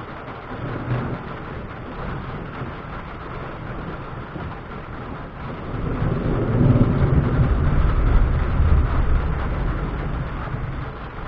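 Rolling thunder: a deep rumble that builds about six seconds in, is loudest for a few seconds, then slowly fades. It sits over a steady background hiss.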